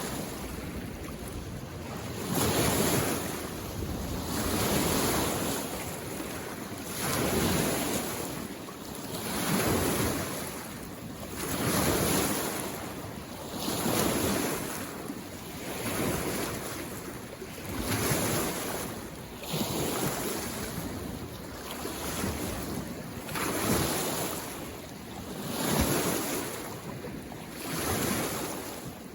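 Small waves on a mountain lake washing onto the shore, one surge of water about every two seconds.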